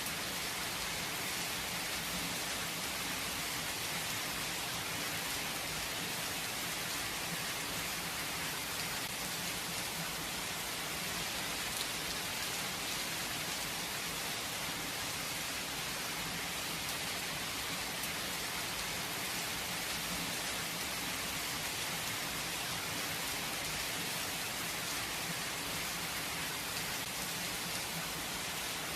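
Steady rain falling on a surface, an even hiss with scattered drop patters and no thunder.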